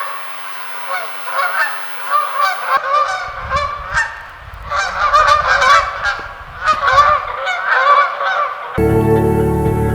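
A flock of geese honking, many short calls overlapping one another, with a low rumble under the middle of it. Music comes in abruptly near the end.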